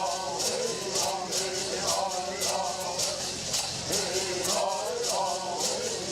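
Southern California Bird Song: singers chanting together over gourd rattles shaken in a steady beat, about three shakes a second.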